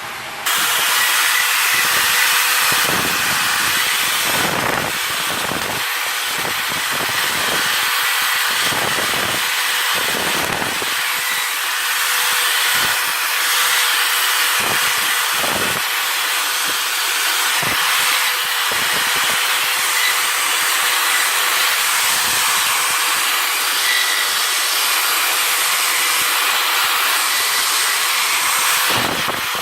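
Steady, loud rushing hiss of a pressurised jet, starting abruptly under a second in and easing slightly near the end.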